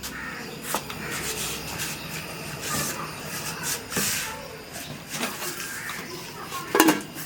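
Scattered knocks and clicks of a cooking pot and utensils being handled over a steady hiss, with a short pitched call, the loudest sound, near the end.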